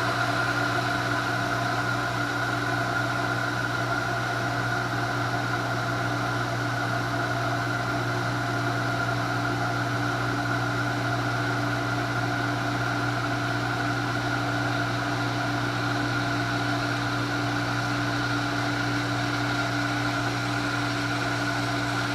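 Shallow well water pump's electric motor running with a steady hum. With the tap closed, it is building tank pressure toward its cut-out point.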